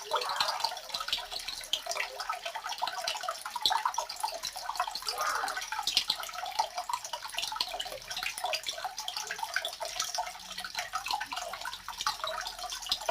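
Water trickling and splashing: a steady, dense patter of small drips and splashes with no pauses.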